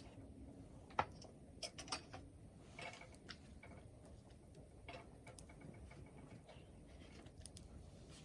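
Wood fire crackling: irregular small pops and ticks, the sharpest about a second in.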